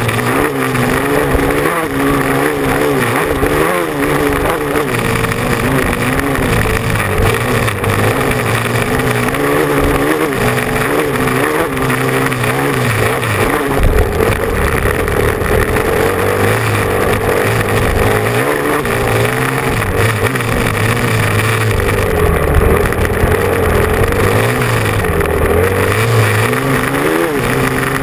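Motocross bike engine running hard, its pitch rising and falling again and again as the throttle is opened and closed.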